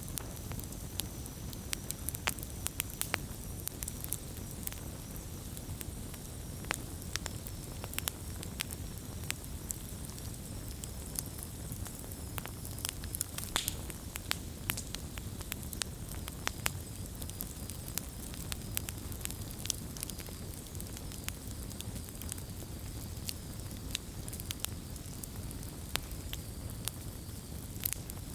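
Wood bonfire burning: frequent, irregular sharp crackles and pops over a steady low rush of flame.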